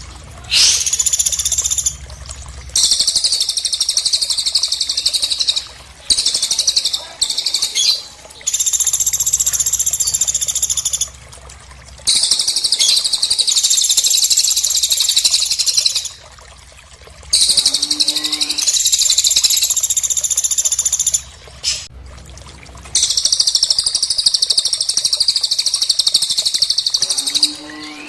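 Recorded small-bird calls: dense, high-pitched chattering phrases repeated in runs of a few seconds with brief pauses between them, played as a masteran track for training songbirds.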